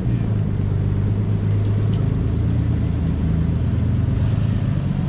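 A car engine running steadily, a low even hum with no change in pitch.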